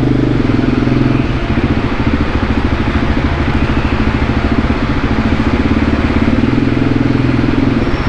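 Voge 300 Rally's single-cylinder engine running steadily at low revs, with an even, rapid firing pulse and no change in speed.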